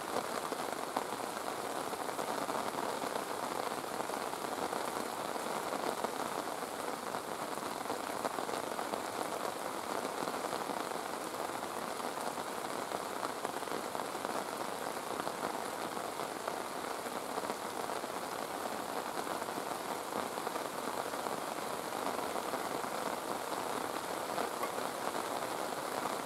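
Steady rain falling, an even patter of drops that keeps up without a break.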